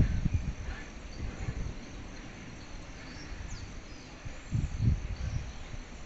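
Crickets chirping steadily in a high, even band, with low rumbles at the very start and again about four and a half seconds in.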